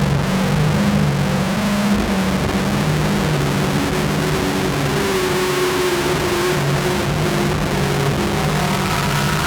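Novation Circuit groovebox synth playing a loud, harsh noise drone from the Howl preset pack. A low buzz steps back and forth between two pitches under a wash of hiss, with a faint higher tone wavering through the middle.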